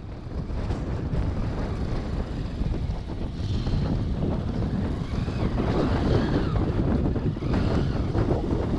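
Motorcycle riding, with heavy wind noise buffeting the microphone over the engine running underneath.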